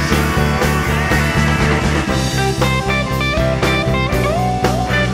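Instrumental break in a psychedelic-blues rock song: electric guitar with bass and drums over a steady beat. About two seconds in, a sliding guitar line enters above the chords.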